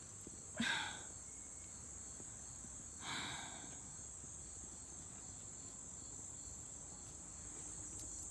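Steady high-pitched insect chorus of late summer, crickets singing, with two short louder calls, one about half a second in and one about three seconds in.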